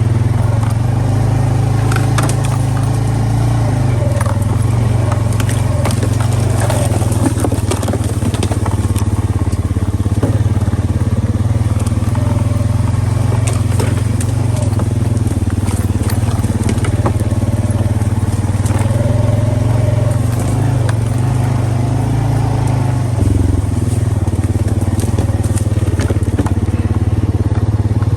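A motor running steadily at an even speed, loud and close, with crackling and scattered knocks over it.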